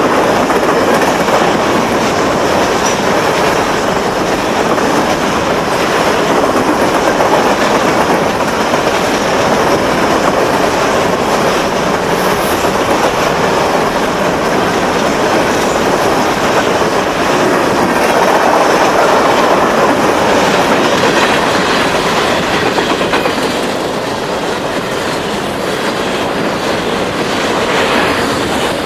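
Empty grain hopper cars of a freight train rolling past, their wheels clattering steadily over the rail joints.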